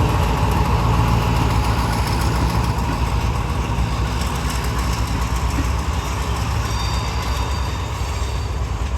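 Diesel train engine idling at the platform, a steady low drone that fades slightly toward the end.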